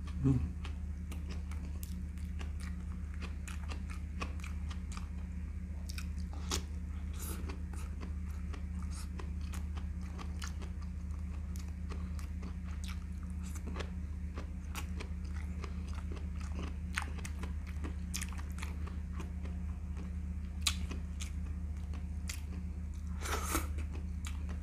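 Close-up chewing and biting as a person eats rice, chicken and stir-fried cauliflower by hand: scattered soft crunches and wet mouth clicks over a steady low hum. A brief louder mouth sound comes right at the start.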